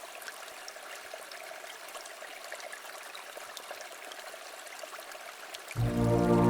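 Water trickling and babbling softly, like a small stream. Near the end, soft new-age style music starts suddenly and is louder than the water.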